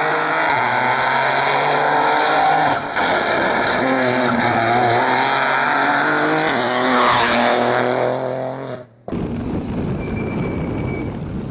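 Rally car engine at full throttle, its note dipping briefly twice as it shifts gear. Just before the end the sound cuts abruptly to a rougher engine and tyre noise from another car.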